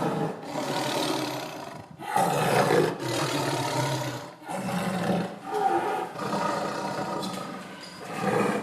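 Lion roaring, a run of several deep roars one after another with short breaks between them.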